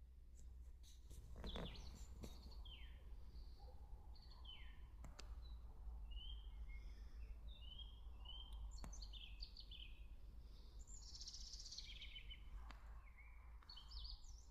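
Songbirds chirping and singing, faint: many short high notes, some sliding downward, with a buzzy trill about eleven seconds in. A steady low rumble runs underneath, with a few sharp clicks in the first two seconds.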